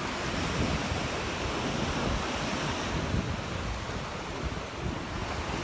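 Surf washing onto the beach, a steady rush of waves, with wind buffeting the microphone in gusts.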